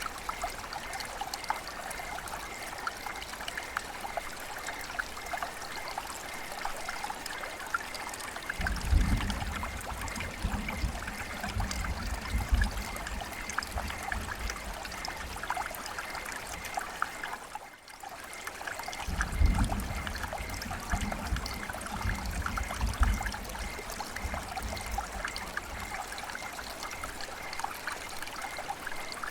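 River water flowing and trickling, a steady splashing babble. A low rumble joins it twice, about a third of the way in and again past the middle, and the water briefly drops away just before the second rumble.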